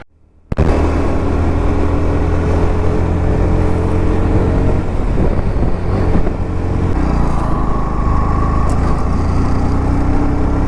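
Motorcycle engine running steadily while riding, starting about half a second in; the engine note shifts about seven seconds in.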